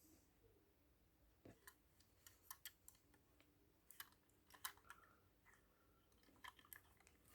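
Near silence with a dozen or so faint, scattered clicks and taps from a die-cast toy car being handled and set down.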